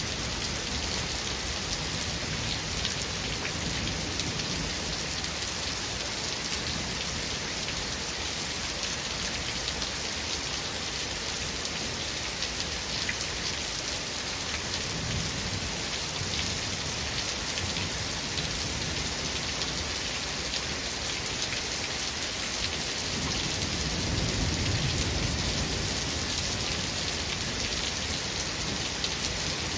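Steady heavy rain falling, with low rumbles of thunder; the loudest rumble comes about three-quarters of the way through.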